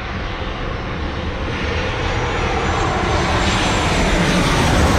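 Jet engines of a Southwest Airlines Boeing 737 roaring as the airliner passes along the runway, growing steadily louder.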